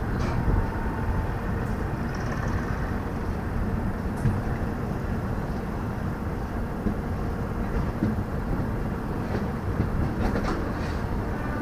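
An express train of LHB passenger coaches running, heard from an open coach door: a steady rumble of wheels on the rails mixed with wind, with a few sharp clicks near the end.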